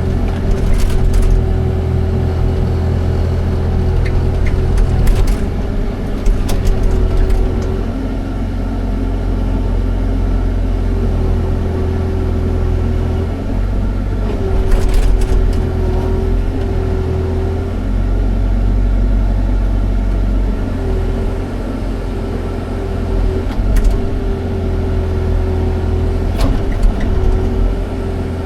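Excavator's diesel engine running steadily, with a steady whine over it and a few sharp clanks here and there.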